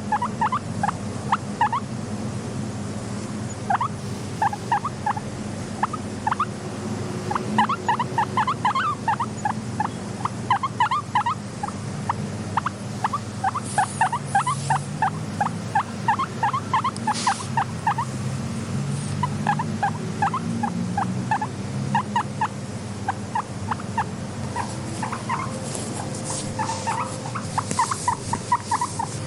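Guinea pigs squeaking: quick series of short, rising squeaks, several a second, coming in bursts with brief pauses, over a low steady rumble.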